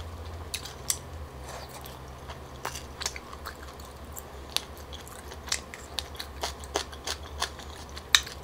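Close-miked chewing of stir-fried tteokbokki rice cakes and cuttlefish balls: scattered sharp wet mouth clicks and smacks, a few every second.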